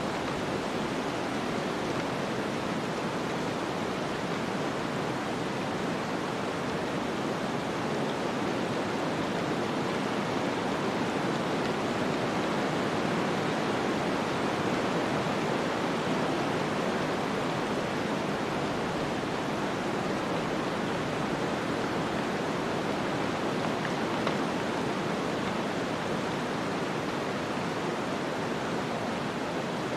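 Steady rushing snowstorm wind, an even hiss that swells slightly about halfway through.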